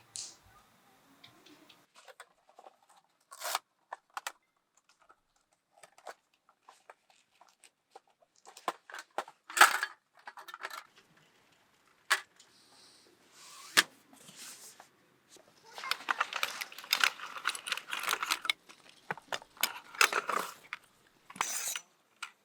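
Things being handled by hand: scattered clicks and short crinkling, tearing noises, sparse at first and coming thick and fast for several seconds near the end.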